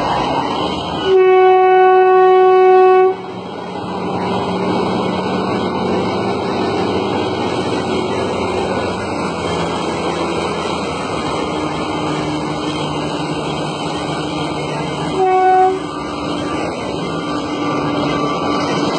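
Train horn blowing one long blast of about two seconds, then a short blast near the end, over steady engine and traffic noise.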